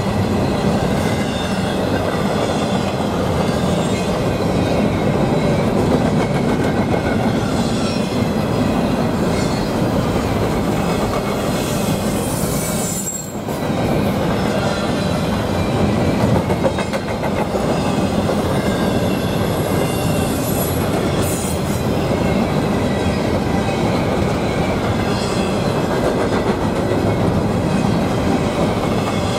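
A train's cars rolling past close by in a steady, loud rolling rumble. Brief high wheel squeals come just before halfway and again about two-thirds through, and the noise dips for a moment about halfway.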